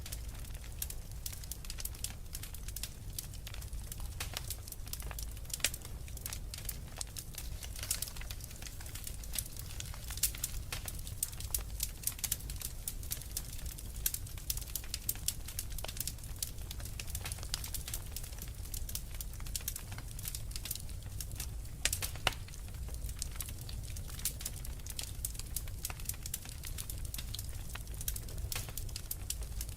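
Wood fire crackling in a fireplace: a steady low rumble of flames with many irregular sharp pops and snaps, a few louder ones about 10 seconds and 22 seconds in.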